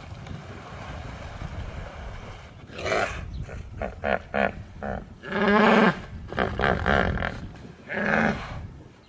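A series of loud animal calls over a steady rushing background: several short calls, with longer ones about five and a half seconds in and again near the end.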